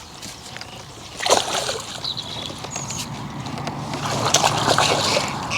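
Lake water splashing and sloshing, with a sharper splash about a second in and more splashing building near the end.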